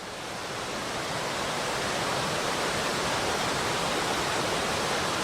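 Mountain stream rushing through rapids: a dense, steady rush of water that swells up over the first couple of seconds and then holds even.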